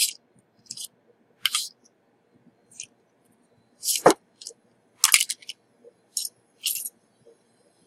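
A run of short, irregular scraping and scratching strokes from hand tools at a microsoldering bench, with sharper knocks about four and five seconds in. A faint, steady high whine starts near the end.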